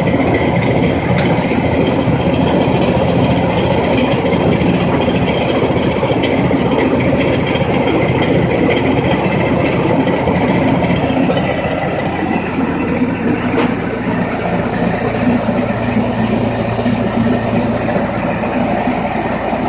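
Tractor-driven mini rice mill (paddy huller) running: the tractor engine turning the mill, with a steady, loud mechanical clatter and rumble. The sound eases slightly about twelve seconds in, leaving a steadier low hum.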